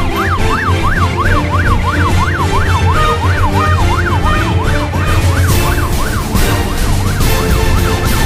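Electronic siren in a fast yelp, its pitch rising and falling about two to three times a second, fading out over the last few seconds, over music and a steady low hum.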